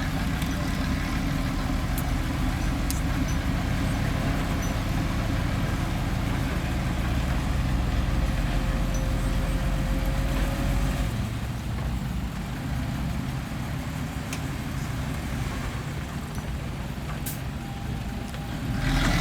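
Heavy diesel machinery (dump truck or bulldozer engine) running steadily with a low rumble that eases off about eleven seconds in.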